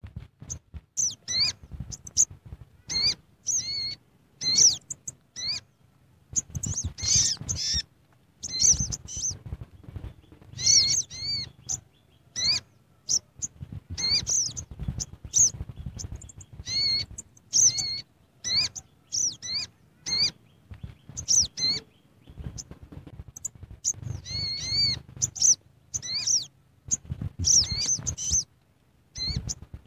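Bird chirping in quick repeated short calls, several a second with brief pauses, over irregular low thumps and rumbling.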